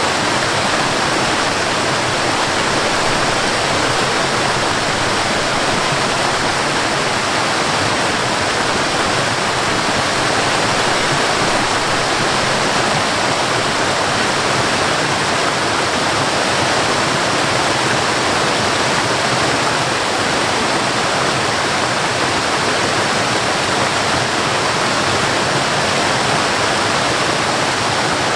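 Waterfall: water falling and splashing in a steady, continuous rush with no breaks or changes.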